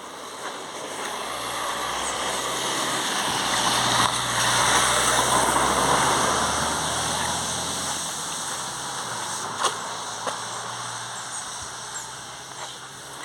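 A motor vehicle passing by: its engine hum and road noise swell to a peak about five seconds in, then fade slowly. A couple of sharp clicks come near the end.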